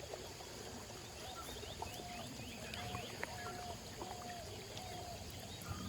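Birds calling over a steady background hiss of outdoor ambience: a short level whistled note repeated five or six times, about one a second, with fainter high falling chirps and a few light clicks.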